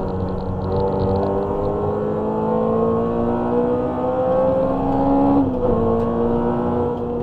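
Honda Civic EG6's 1.6-litre VTEC four-cylinder under hard acceleration, heard from inside the cabin. Its pitch climbs steadily, dips quickly about five seconds in at an upshift, then holds steady in the next gear.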